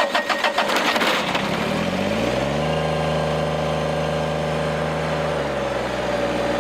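Small Kubota tractor's diesel engine starting after the tractor was tipped over: it fires with a fast clatter and catches at once. About two seconds in it revs up, holds steady, then drops back to idle near the end.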